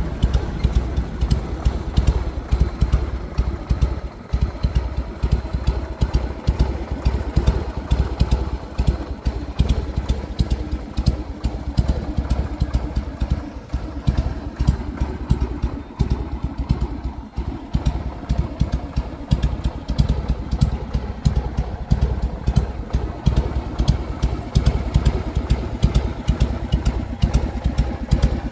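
Harley-Davidson XLH883 Sportster's air-cooled 883 cc V-twin idling through its exhaust, with the loping three-beat idle rhythm it has been tuned for. The deep exhaust pulses stay steady, with no clear revving.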